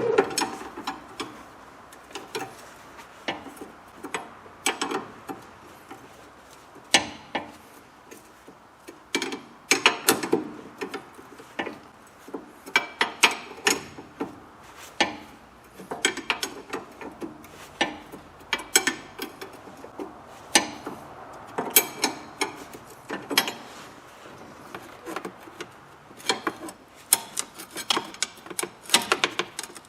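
Spanners clicking and clinking on the steel nut and bolt of a car's front stabilizer link as the lower nut is undone, in irregular bursts of sharp metallic clicks.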